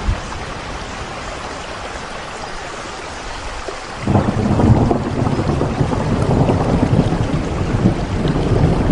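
Rain falling steadily as an even hiss. About four seconds in, a loud, deep rumble sets in suddenly under the rain and continues.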